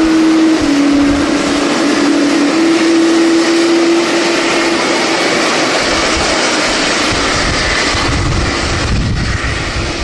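Jet airliner engines running loud, a broad rushing noise with a steady hum that shifts slightly in pitch, and a low rumble that grows about halfway through.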